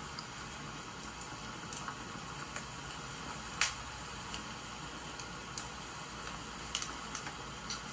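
Wood fire crackling: scattered sharp pops and snaps over a steady hiss, the loudest pop about three and a half seconds in.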